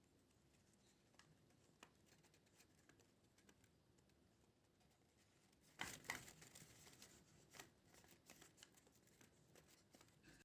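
Near silence with faint paper handling: scattered small clicks and soft rustles, with one brief louder rustle of paper about six seconds in.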